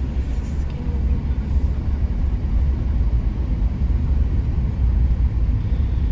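Low, steady rumble of a car on the move, heard from inside the cabin: engine and road noise.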